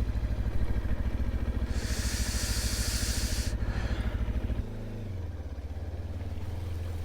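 Mutt motorcycle engine running with a fast, rough beat, with a loud hiss for about two seconds near the middle; about two thirds in the engine settles to a smoother, lower, steady running.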